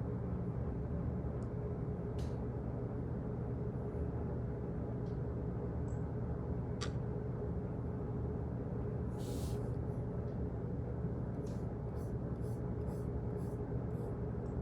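Office background ambience: a steady low hum with scattered light clicks and ticks, a brief rustle about nine seconds in, and a quicker run of clicks near the end.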